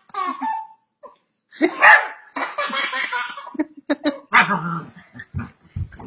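Dog barking several times in short bursts.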